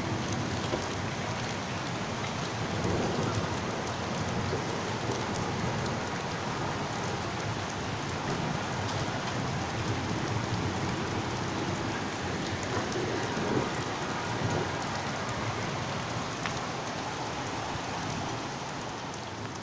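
Heavy rain falling and pattering on surfaces, a steady dense hiss with scattered drop ticks.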